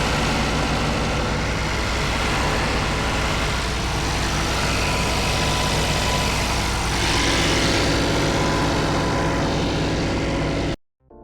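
Suzuki Jimny JB64's 660 cc turbocharged three-cylinder engine running steadily, listened to for the abnormal noise that faulty connecting rods cause in early JB64s. It cuts off suddenly near the end, and music starts.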